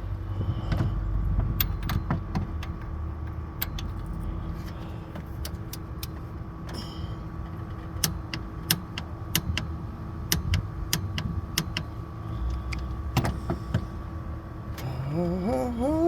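Wrench clicking on the belt tensioner's bolt: a dozen or so sharp metallic clicks at irregular spacing, over a faint steady hum.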